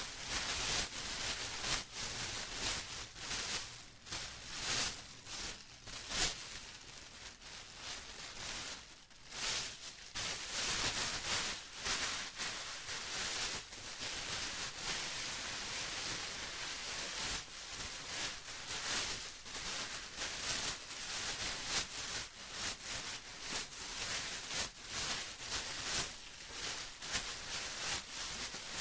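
Plastic rustling and crinkling, a continuous crackly noise that swells and dips irregularly.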